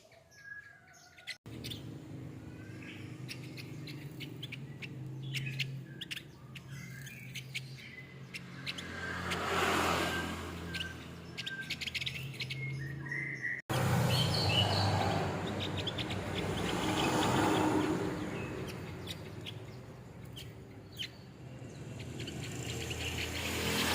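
Male Javan grey-throated white-eye singing a busy run of quick, short chirping notes, over a low steady hum and swells of background noise. The sound cuts off abruptly and restarts about a second and a half in and again about 14 seconds in.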